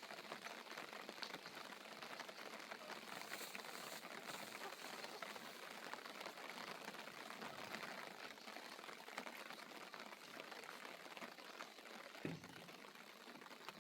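Steady rain falling, a faint, even patter of drops, with a single knock about twelve seconds in.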